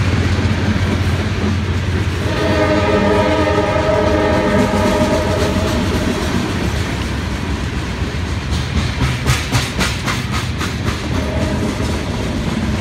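Freight train boxcars rolling past close by: steel wheels rumbling and clicking over the rail joints, with a quick run of clicks about nine seconds in. A held tone of several notes sounds from about two to six seconds in and again near the end.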